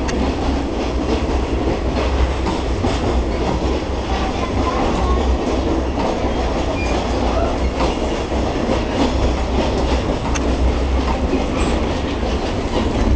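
El Chepe passenger train running: a steady low rumble of wheels on rails with scattered light clicks and rattles.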